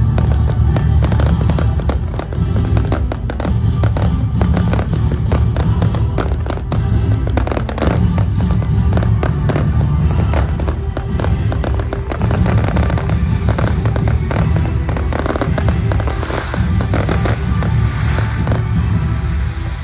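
Fireworks display going off in rapid succession, many bangs and crackles overlapping with no pause, over steady music.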